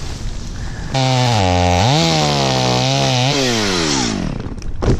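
Chainsaw engine comes in loud about a second in, its pitch sagging and recovering as the chain works under load, then winding down as the throttle is let off. A sharp knock sounds near the end.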